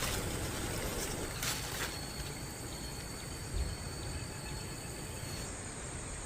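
Steady high-pitched insect buzzing, with a short rustling clatter about one and a half seconds in.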